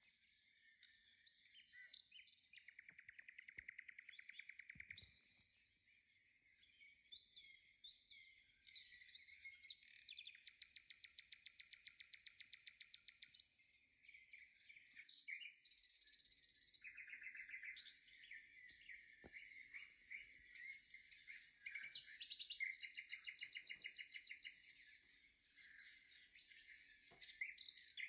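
Faint birdsong: small birds chirping and twittering throughout, with several fast trills of rapidly repeated notes.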